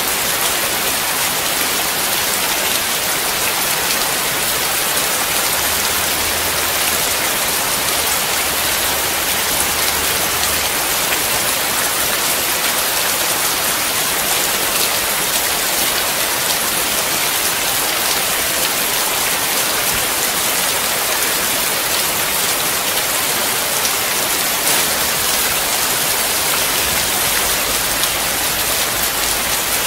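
Steady rain: an even, dense hiss of many small drops splashing.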